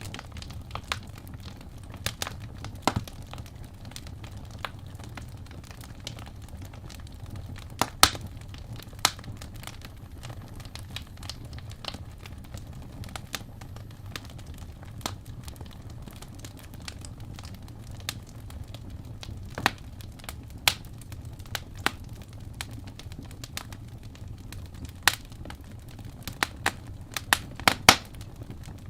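Wood fire burning in a fireplace: a steady low rumble of flames with irregular sharp crackles and pops from the burning logs, a few of them louder.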